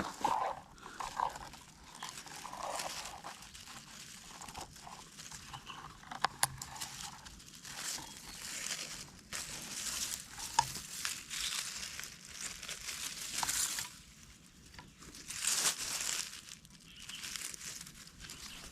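Uneven bouts of rustling and crinkling of dry forest-floor litter as wild mushrooms are picked by hand, with a few sharp clicks and snaps.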